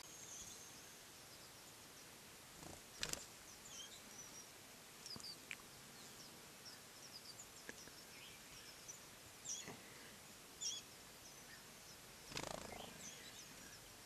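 Faint forest ambience with scattered short, high-pitched bird chirps and a few brief soft clicks.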